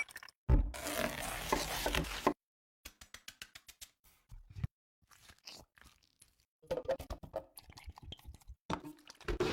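Close-miked crunching of food, a loud crisp stretch in the first two seconds, then scattered light clicks and taps, broken by dead-silent edit cuts.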